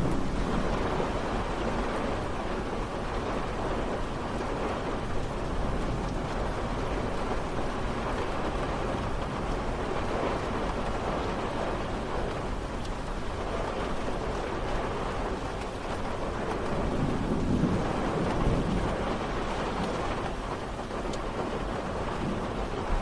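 Steady rain falling in an even hiss, with a low thunder rumble swelling and fading about three-quarters of the way in.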